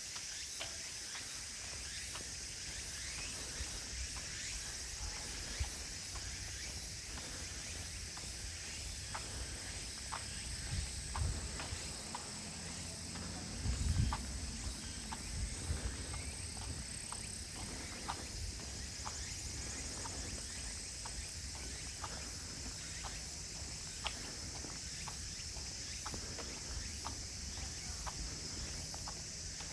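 A steady, high-pitched chorus of insects with footsteps on a path, about one step a second, and a brief low rumble about halfway through.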